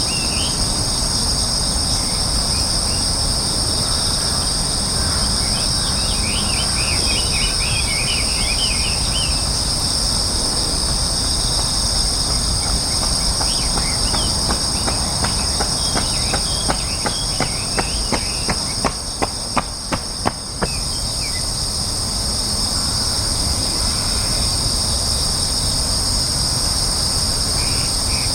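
Steady high-pitched buzzing of insects in two continuous tones, with brief small-bird chirps near the start, about a third of the way in and again near the end. Around the middle there is a run of sharp taps, about three or four a second, for several seconds.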